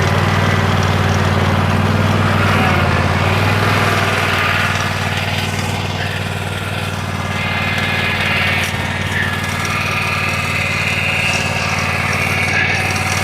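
Small tractor engine running steadily with an even low hum while towing a dump cart on a hillside.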